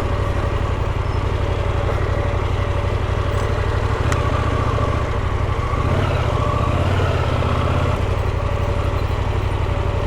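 Motorcycle engine running steadily as the bike rides slowly along a muddy off-road trail, its note changing between about four and eight seconds in.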